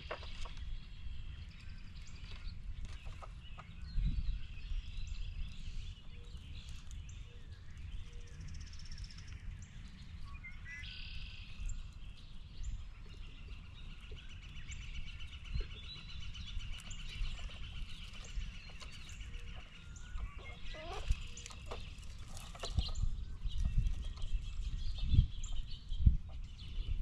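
Wild birds calling and chirping, including one long pulsed call in the middle, over a steady low rumble, with scattered clicks and knocks that grow louder near the end.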